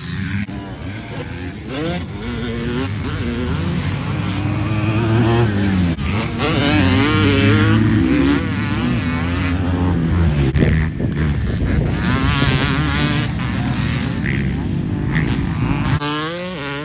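Motocross dirt bike engine being ridden around the track, its pitch repeatedly rising and falling as the throttle opens and closes.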